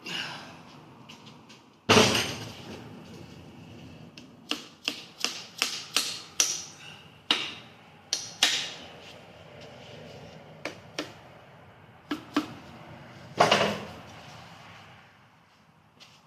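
Irregular sharp knocks and clicks of metal engine parts being handled and tapped during rotary engine assembly, with a quick run of lighter taps in the middle and two louder knocks, about two seconds in and near the end.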